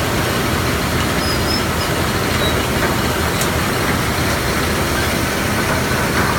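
Gravel-to-sand crushing plant running: a loud, steady, continuous machine din.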